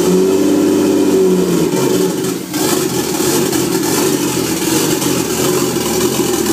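Nissan RB25DET turbocharged straight-six running just after its first start, with no exhaust system, MAF or intercooler pipes fitted. The revs flare up and ease off over the first two seconds, dip briefly about two and a half seconds in, then settle into steady running.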